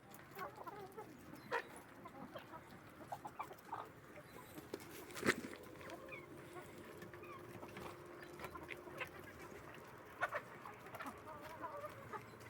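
Chickens clucking, with short calls scattered throughout and a sharp, louder sound about five seconds in.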